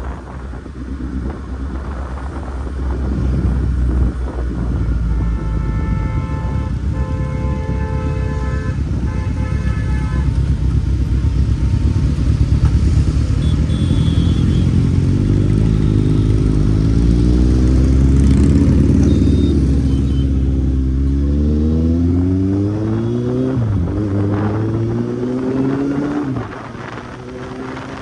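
Kawasaki Z800's inline-four engine running at speed, then accelerating in the second half, its pitch climbing and falling back several times as it shifts up through the gears. A vehicle horn sounds in a few short blasts about a fifth of the way in.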